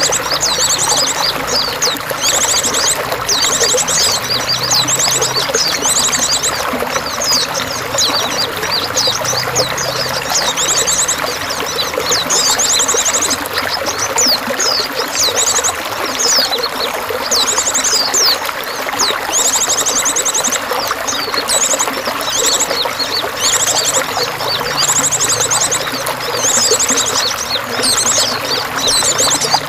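Water pouring and trickling steadily, with songbirds singing over it in repeated high chirps and fast buzzy trills.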